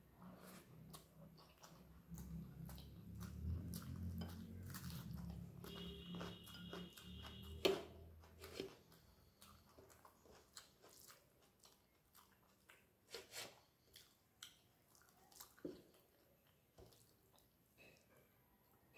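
Close-up chewing and mouth sounds of someone eating a handful of rice and fish curry, loudest in the first half, then scattered wet smacks and small clicks as fingers mix rice on a steel plate, with one sharp click about eight seconds in.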